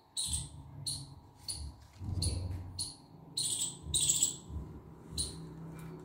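A small bird chirping repeatedly: short high chirps about twice a second at uneven spacing, over a low rumble.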